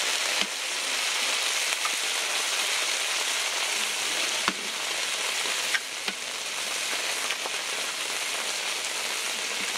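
Eggs and glass noodles sizzling steadily on a hot flat-top griddle, with a handful of sharp cracks as more eggs are broken open over it.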